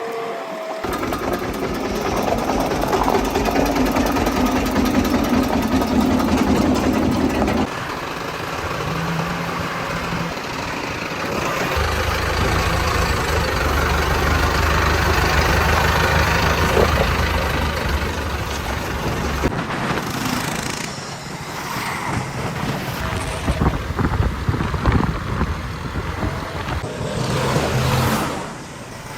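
Diesel engine of earthmoving or farm machinery running at work, its note shifting several times as the load changes, with scattered knocks and clatter in the later part.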